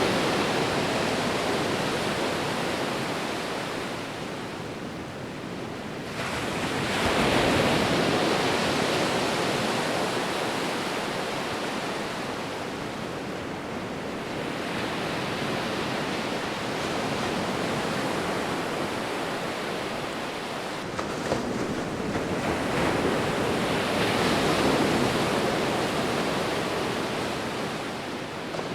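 Sea waves breaking and washing up the shore in a steady rush, swelling to a peak about every eight to sixteen seconds and ebbing between.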